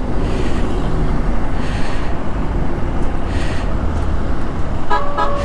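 Bajaj Pulsar NS160 motorcycle riding along a highway: steady engine and road noise with wind rush on the handlebar-mounted phone. A brief steady tone sounds near the end.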